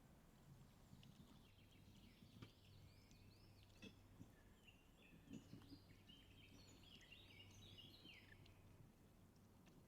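Faint chirping of birds: many short, arched notes in quick runs throughout, over a low steady hum, with a few soft knocks.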